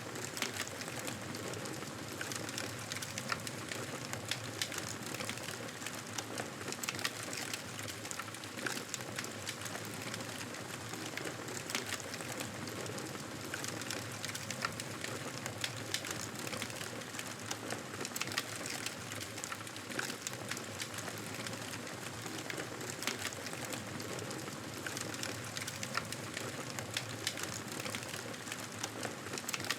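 Wood fire crackling in a fireplace: a steady hiss with frequent small, sharp pops throughout.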